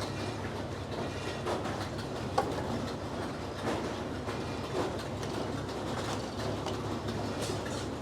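Frick sawmill running, its 48-inch circular saw driven by a Minneapolis Moline engine, making a steady low drone with light clattering. It is working on a poplar log.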